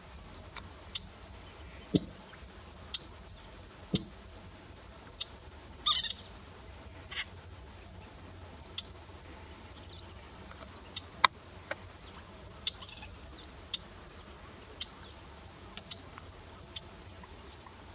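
Clamorous reed warbler giving short, hard call notes, irregularly about one a second, with one brief harsher call about six seconds in.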